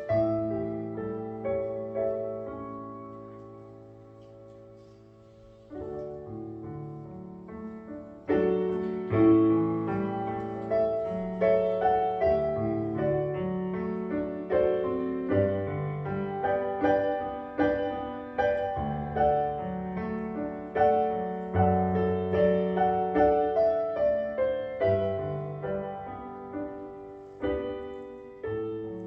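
Solo piano playing a slow, gentle prelude. A chord is left to ring and fade over the first few seconds, then the playing picks up again and grows fuller, with a steady flow of chords and melody notes.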